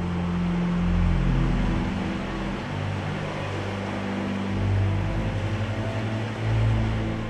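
Steady rushing of sea surf over low, sustained ambient music notes; the rushing cuts off at the end.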